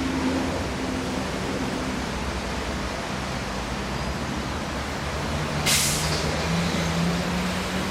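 GM G12 diesel locomotive running with a steady low rumble, its engine note rising slightly near the end. A short sharp hiss of air comes out about six seconds in.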